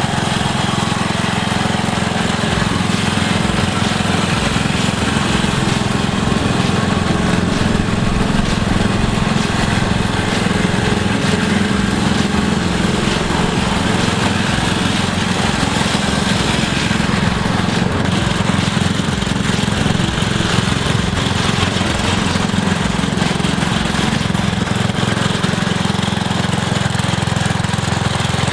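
MTD riding lawn tractor engine running steadily at constant speed, as it pulls a hooked-up load.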